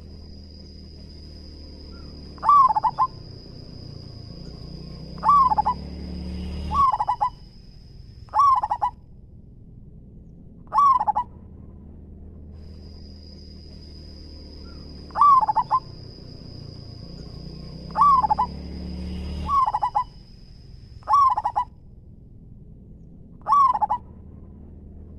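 Zebra dove (perkutut) cooing in short, pitch-bending phrases, repeated every two to three seconds. A steady high-pitched whine runs behind it for long stretches and breaks off twice.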